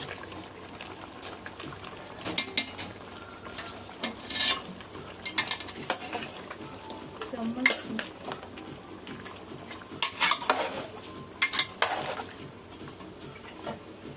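Chicken with ginger and garlic being stir-fried in hot oil: a spatula scraping and knocking irregularly against the pot over a steady sizzle.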